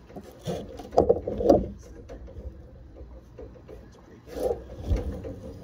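Rubbing and scraping handling noises with a few sharp clicks, in two short clusters: about half a second to two seconds in, and again near the end.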